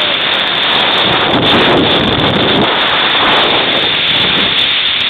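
Storm wind, a loud steady rush buffeting the microphone, swelling slightly in the middle.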